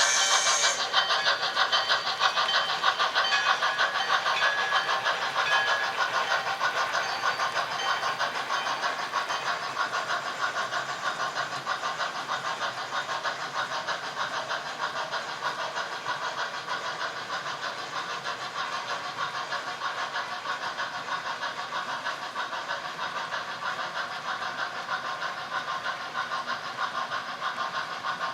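Sound-equipped HO scale model steam locomotives running, their rapid, steady chuffing played through small onboard speakers and slowly growing quieter. A high hiss is heard at the start.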